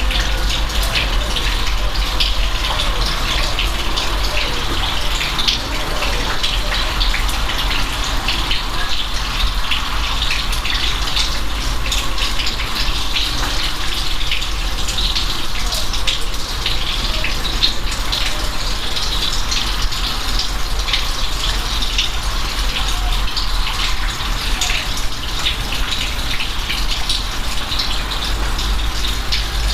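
Steady rain falling: a dense patter of drops over an even hiss, with a low rumble underneath.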